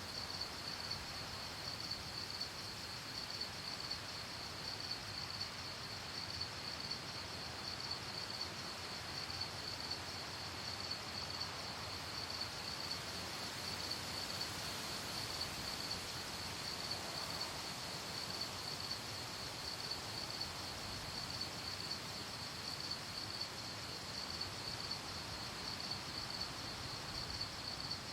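Crickets chirping in a steady, continuous chorus of fast, even, high-pitched pulses, over a soft even hiss of night air.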